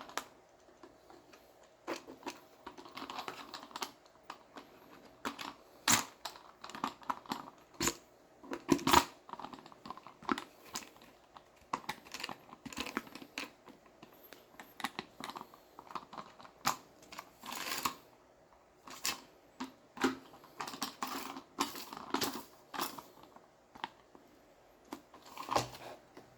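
Spin mop set being unpacked and handled: irregular clicks and knocks of hard plastic parts, with rustling of packaging.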